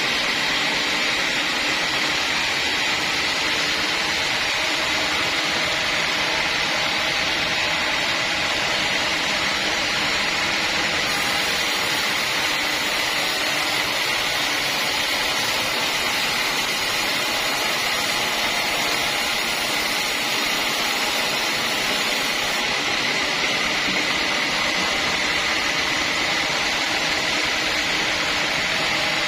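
Sawmill saw running with a steady machine noise and a constant high whine, unchanging throughout.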